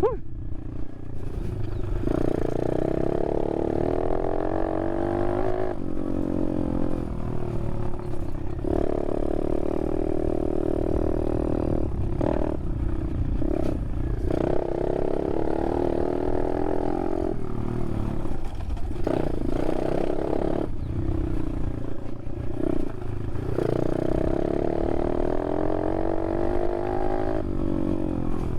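Apollo RFZ 125cc dirt bike's single-cylinder engine revving up and down under riding, the pitch climbing and dropping again and again as the throttle is opened and closed, with a steady wind rumble on the microphone.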